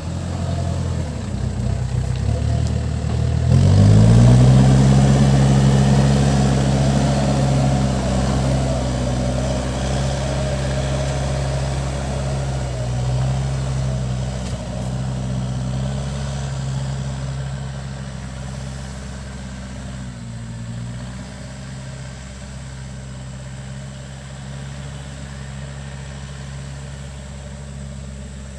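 Backhoe loader's diesel engine running. About four seconds in it revs up quickly and holds at high revs, then slowly grows quieter through the second half.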